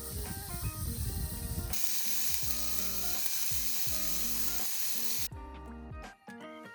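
Food sizzling as it fries in a pan: a loud, even hiss that cuts in sharply a little under two seconds in and cuts off suddenly about five seconds in, over light background music.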